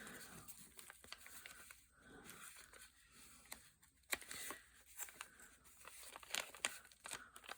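Faint crinkling and rustling of paper with small tearing sounds, as a taped-down piece of book page is peeled and worked loose.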